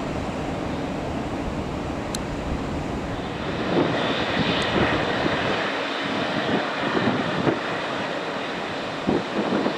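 Airliner engine noise, a steady rush that swells about three and a half seconds in.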